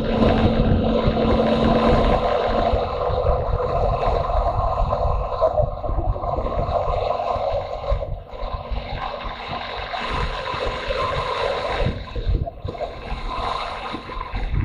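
Motorcycle engine running under way, with wind rushing over the microphone. The engine note dips briefly twice, about halfway through and again near the end, as during gear changes.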